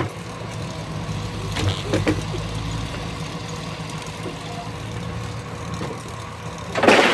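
Steady low running of a steam traction engine powering a sawmill, with a short, loud rushing burst near the end.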